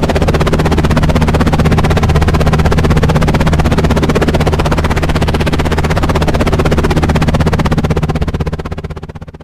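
Helicopter rotor blades chopping with a rapid, even beat over a steady engine drone, fading out near the end.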